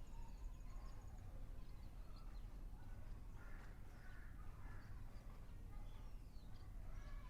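Faint bird calls: scattered short chirps, with a cluster of harsher calls about halfway through, over a steady low rumble.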